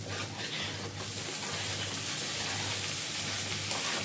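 Onion masala frying in oil in a kadai, sizzling steadily. The sizzle grows louder about a second in as chopped tomatoes go into the hot pan.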